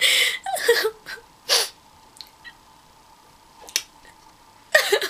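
A person making four short, sharp breathy vocal sounds without words: three in the first two seconds and one near the end. A small click falls between them.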